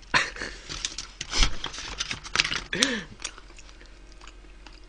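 Close-up chewing and biting of wood-fired roast chicken, with crunchy bites and wet mouth clicks for about three seconds, then a brief voiced hum, and quieter after.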